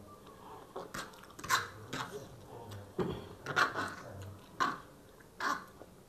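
Chewing and mouth sounds of people eating noodles: short, irregular smacks and clicks, roughly one a second.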